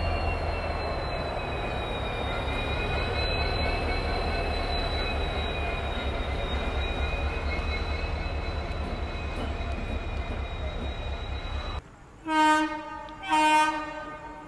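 Locomotives rolling past on the next track: a steady low rumble with a high, slightly wavering whine over it. After a sudden cut near the end, an approaching train's horn sounds in two short, loud blasts.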